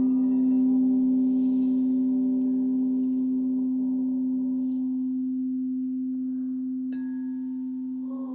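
Singing bowl ringing with one steady, deep, sustained tone that slowly fades. Its higher overtones die away within the first few seconds. A faint click comes about seven seconds in.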